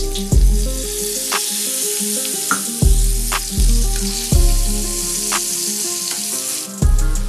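Chicken pieces sizzling as they fry in ghee in a nonstick pan, with a few sharp clicks as a spatula stirs them and the spices. Background music with a bass line plays over the frying, and its low notes are the loudest part.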